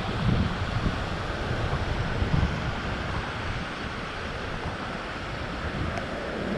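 Ocean surf washing on the beach, with wind buffeting the microphone in gusts during the first couple of seconds.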